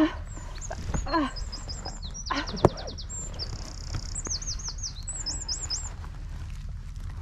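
A songbird singing a run of high, quick phrases, each a few rapidly repeated notes, changing phrase every second or so, then stopping about six seconds in.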